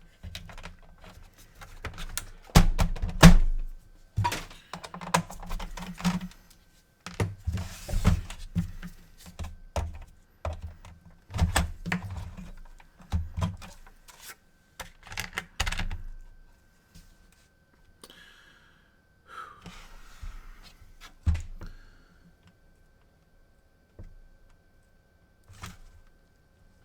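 Irregular knocks, thunks and light clatter of a PS4 console's parts being handled on a workbench. The knocks are loudest about three seconds in and thin out after about sixteen seconds. A faint steady high tone runs underneath.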